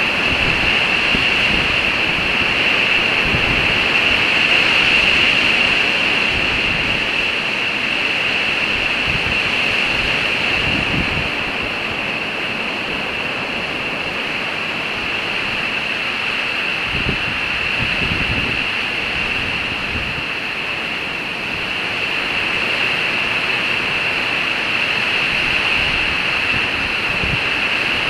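Strong winter wind blowing through forest trees in a snowstorm: a steady rushing that swells and eases, with gusts now and then buffeting the microphone with a low rumble.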